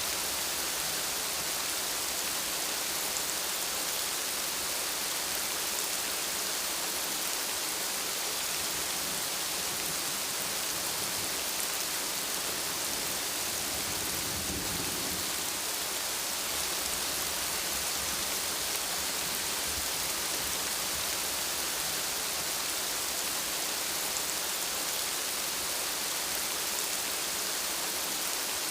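Steady rain with a constant, even hiss, and a brief low rumble of distant thunder about halfway through.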